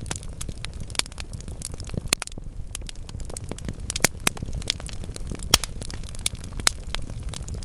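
Wood fire burning in a fireplace: irregular crackling with a few sharper pops from the burning logs, over a steady low rumble of the flames.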